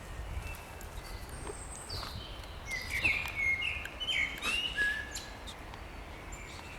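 Songbirds singing in spring: a run of short whistled and chirping notes between about two and five seconds in, with fainter calls around it, over a low steady background rumble.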